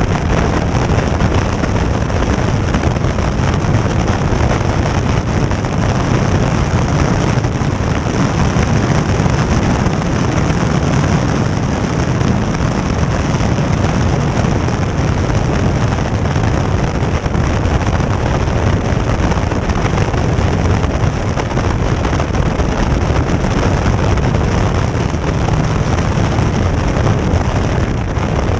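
Caterham Seven's engine running at speed on track, mixed with steady wind buffeting on the microphone in the open cockpit. The sound holds steady throughout with no clear breaks.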